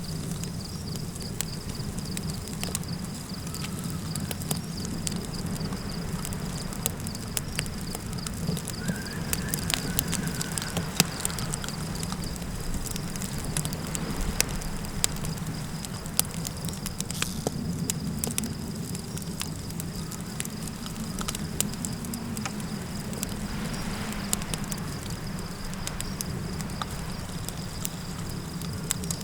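Campfire crackling with frequent sharp pops over a steady low rumble of fire and wind, with a steady high insect drone like crickets throughout.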